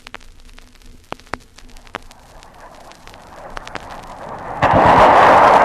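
Vinyl record surface noise, scattered clicks and pops, while aircraft engine noise slowly builds. About four and a half seconds in, the aircraft noise jumps suddenly to full loudness and holds.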